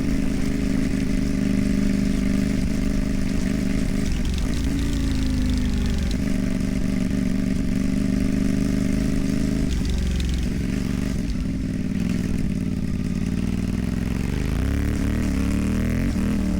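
CFMOTO 450MT parallel-twin engine running through a modified, louder aftermarket exhaust while riding on dirt. It holds a steady pace, eases off briefly about four seconds in, backs off again about ten seconds in, then picks up and accelerates near the end.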